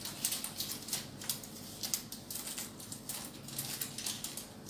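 Aluminium foil and a cardboard box being handled, with irregular light crinkles and small taps.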